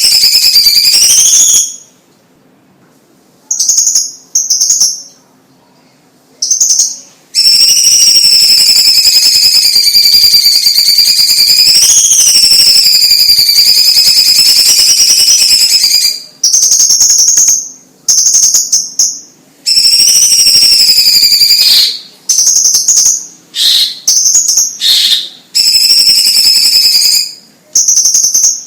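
Orange-bellied leafbird (cucak cungkok) singing: loud, clear whistled phrases that waver up and down in pitch, one long unbroken stretch of about eight seconds in the middle, then a run of shorter phrases with brief pauses between them.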